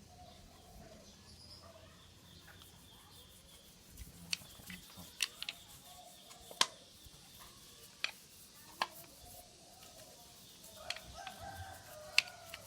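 Chickens clucking, with a rooster crowing near the end, behind a scattering of sharp clicks and clinks.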